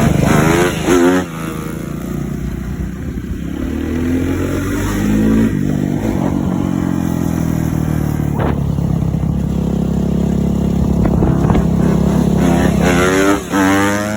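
Motocross bike engine revving up and dropping back several times, as if shifting through gears, with steadier running between the revs.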